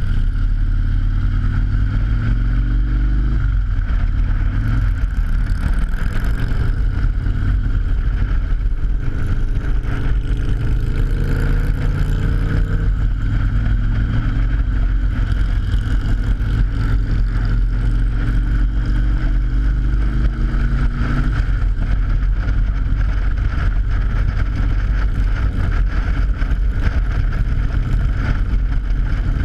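Motorcycle engine pulling up through the gears, its pitch rising and then dropping at shifts about 3 seconds, 13 seconds and 21 seconds in, over wind rumble. A steady high hum runs throughout, the sound of tyres on the bridge's open steel grating.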